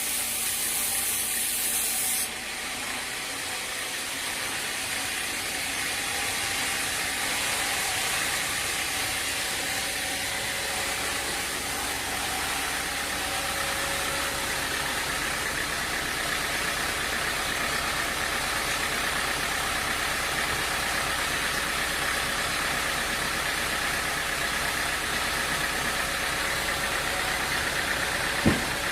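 Sawmill machinery running steadily, an engine-like drone with hiss. A high hiss drops away about two seconds in, and a single sharp knock sounds near the end.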